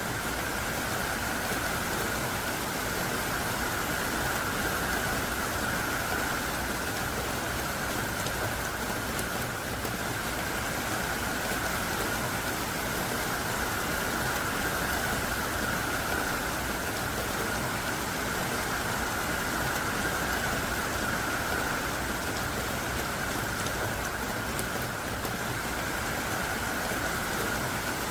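Heavy downpour of thick, hard-falling rain, a steady dense hiss with no breaks or separate drops standing out.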